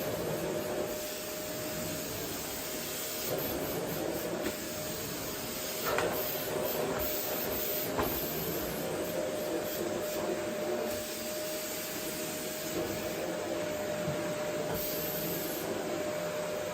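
Vacuum cleaner running steadily: a constant rush of air with a steady whine, and two light knocks about six and eight seconds in.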